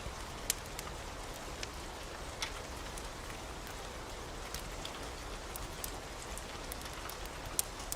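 Steady rain hiss with scattered sharp ticks of drops striking, one or two a second.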